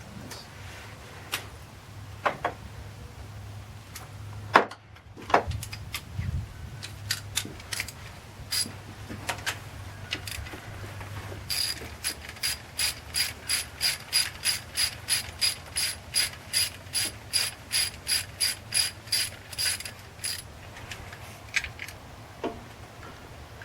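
Socket ratchet wrench working a bolt: scattered clinks and knocks of tools on metal at first, then from about halfway a steady run of rapid ratchet clicks, about three to four a second, for some nine seconds.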